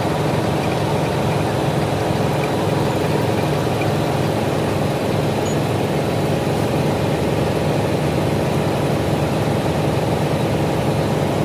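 A workshop machine running steadily, a continuous even hum with no breaks or changes.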